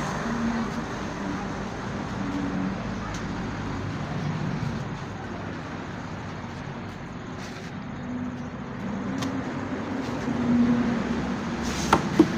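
Steady background noise with a faint low hum, like distant road traffic, and a few faint clicks.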